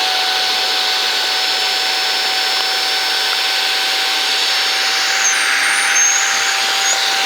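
Saker 3-in-1 cordless handheld vacuum running steadily on its low setting, a constant motor whine over a rush of air, as it sucks the air out of a plastic vacuum storage bag. A few short high squeaks come in a little past the middle and near the end.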